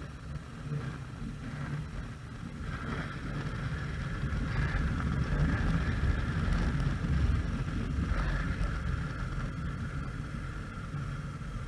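Motorcycle running under way, a steady low rumble with wind noise, growing louder in the middle and easing off near the end.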